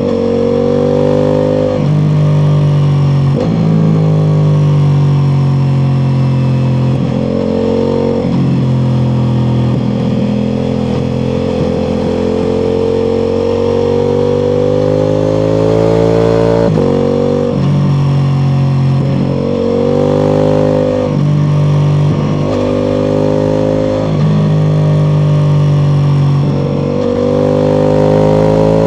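Ducati Multistrada V4 Pikes Peak's V4 engine through an Akrapovic exhaust, under way on the road: the engine note climbs steadily and then breaks off sharply at each gear change, again and again.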